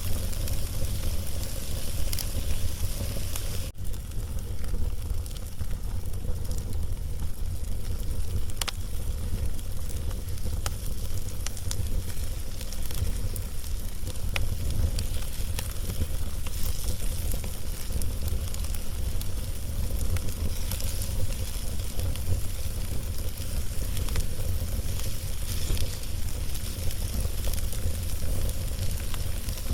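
Wood fire burning with a steady hiss and scattered sharp crackles and pops as the flames lick over a log, over a constant low rumble.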